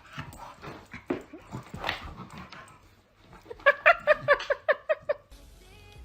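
A dog vocalising: scattered sounds at first, then a quick run of about ten short, high yips a little past the middle.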